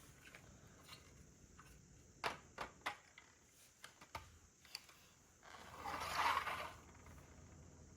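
Plastic Lego pieces being handled: a few small ticks, three sharp clicks a couple of seconds in, then about a second and a half of rustling.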